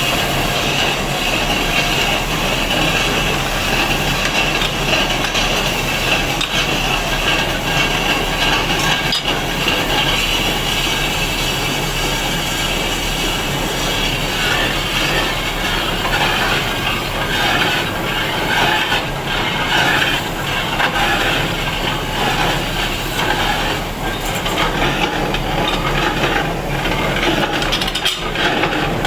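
Stone being worked: a continuous, rough scraping and grinding noise over a low steady hum.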